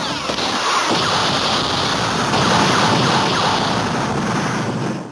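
Sound effects of a Kamen Rider Zero-One finishing attack: a loud, steady rush of noise that fades out at the very end.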